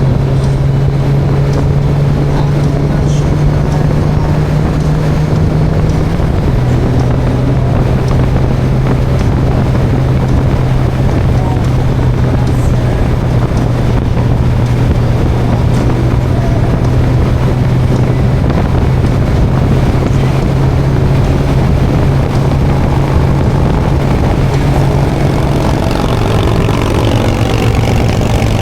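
Motorcycle engine running at a steady cruising speed, with wind rushing over the microphone. The engine note drops slightly about six seconds in and again near the end.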